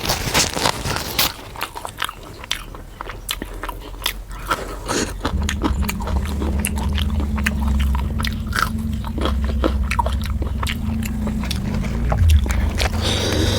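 Close-miked eating: biting and chewing puri with chicken curry, heard as many short mouth clicks and smacks. A steady low hum joins underneath about five seconds in.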